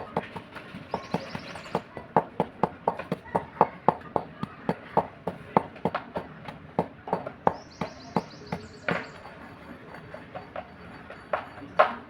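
A clay diya being crushed: a quick, uneven run of sharp crunches and cracks, a few a second, as the brittle clay breaks into crumbles.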